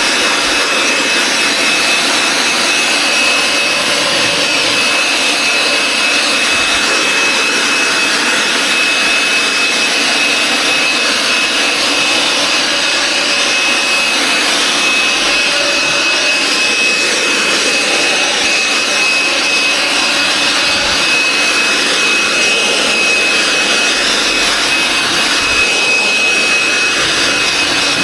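Wet-and-dry vacuum cleaner running steadily with a high whine, sucking standing water out of the dug-out base.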